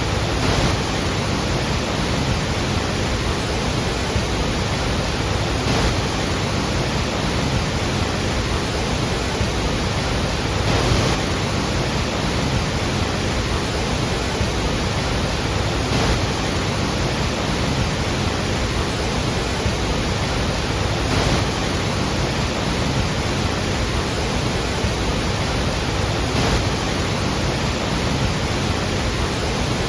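Iguazu Falls: water pouring over the falls in a steady, dense rushing noise that does not change.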